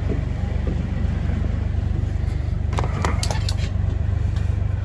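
Vehicle engine running with a steady low rumble. A cluster of sharp rattles and clicks comes about two and a half to three and a half seconds in, with a couple more near the end.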